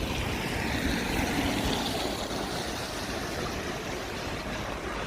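A vehicle passing on a wet city street, its tyre hiss swelling and fading over the first couple of seconds, over steady traffic noise.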